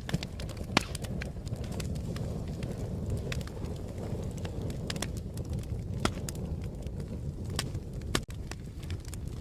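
Wood fire crackling: a steady low rumble of burning with irregular sharp pops and snaps, one of the loudest about a second in.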